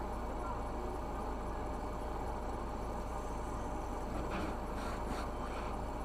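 Steady road and engine noise of a moving car with a low hum, and a few faint ticks in the second half.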